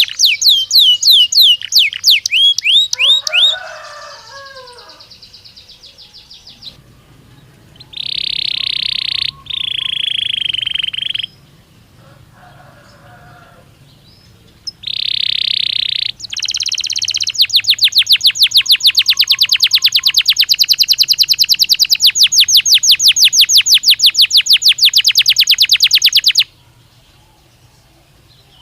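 Domestic canary (Belgian canary) singing in separate phrases. It opens with fast sweeping notes and a lower warble, gives a few held, buzzy high notes, then a long, even, rapid trill of about nine seconds that stops sharply near the end.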